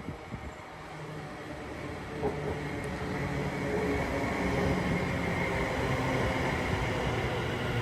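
Train approaching on the line, getting steadily louder, with a hum of several steady tones over a rushing noise.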